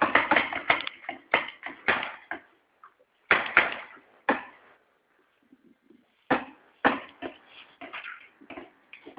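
Paintball markers firing: sharp pops in irregular bursts, several a second at times, with short pauses between the bursts.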